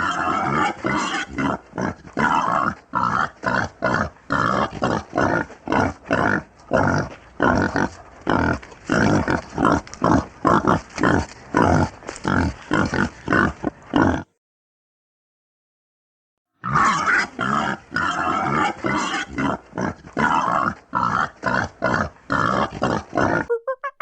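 Pig grunting in quick, harsh bursts, about three a second. The sound cuts out for about two seconds midway, then the grunting resumes.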